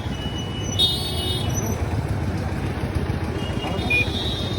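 Busy street ambience: a steady rumble of passing traffic with a short horn toot about a second in, and people's voices in the background.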